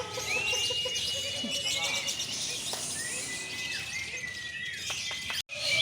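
Many caged songbirds singing at once, with long held whistled notes and busy chirping over a background of people talking. The sound drops out for an instant near the end.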